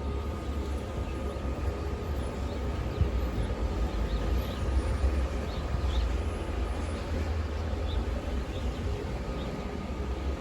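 Snowstorm wind blowing steadily, a deep rumble that swells and eases, with a few faint light ticks above it.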